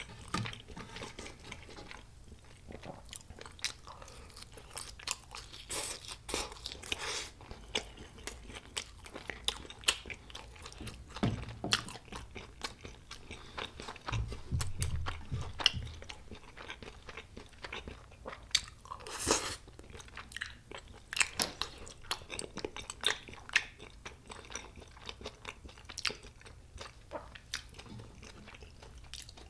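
Close-miked crunching and chewing of crispy Korean fried food (twigim), with many sharp, crisp crunches scattered throughout and a few low muffled thumps about halfway.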